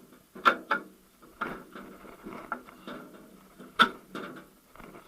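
Sharp metal knocks and clicks from a VAZ manual gearbox's housing and parts being handled and set in place, the two loudest about half a second in and near four seconds in.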